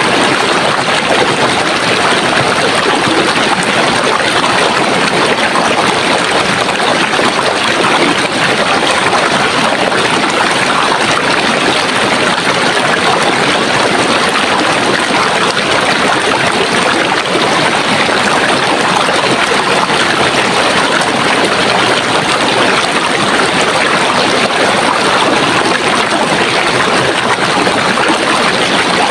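Running water rushing steadily and evenly, like a stream or small cascade flowing, with no change in level.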